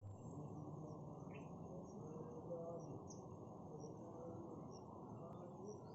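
Crickets trilling steadily at a high pitch, faint, over a low steady rumble, with a couple of short chirps.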